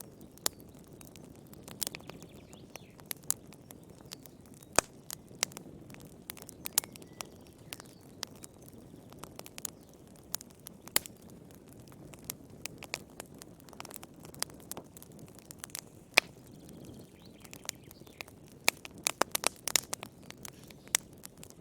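Wood fire burning in a fireplace: irregular sharp crackles and pops over a low steady hiss of the flames, with a quick cluster of pops near the end.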